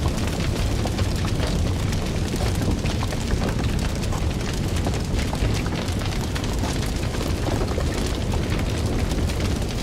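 Fire burning with a steady low rumble and frequent small crackles and pops.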